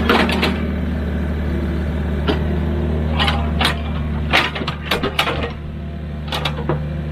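Heavy machinery diesel engine running steadily, with a series of sharp metallic clanks and knocks, bunched together about four to five seconds in.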